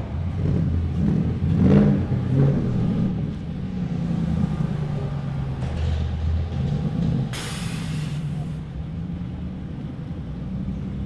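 Cars driving off one after another, engines revving and passing, loudest about two seconds in. A sharp hiss starts suddenly about seven seconds in and lasts just over a second.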